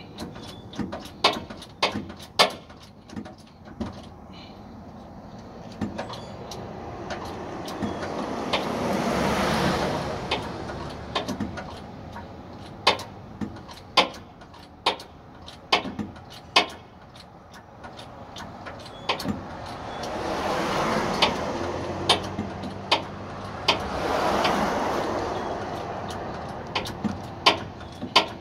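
A jack being worked to lift a loaded boat trailer, with sharp mechanical clicks every second or so. Road traffic passes three times, each pass swelling and fading.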